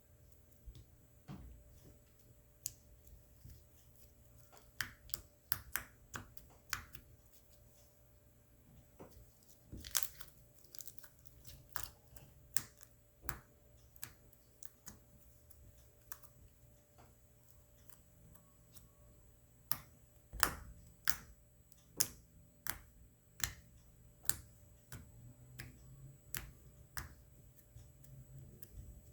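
Slime being squished and worked by hand, making irregular sharp clicks and pops that come in clusters.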